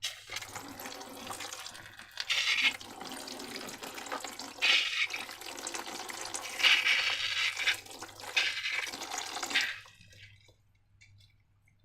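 Wet, watery pouring and sloshing, swelling in four louder surges and stopping suddenly about ten seconds in.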